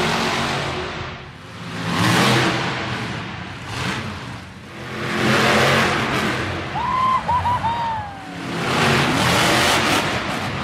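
Monster truck engine revving hard in three surges, rising and falling with the throttle. A few short high-pitched squeals come about seven seconds in.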